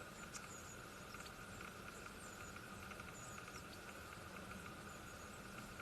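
Faint, short high-pitched bird chirps, a few of them spread across the stretch, over a steady low hum and light ticking.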